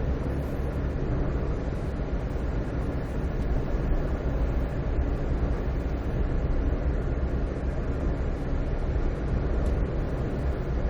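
A car driving along at a steady pace: an even low rumble of road and engine noise with no distinct events.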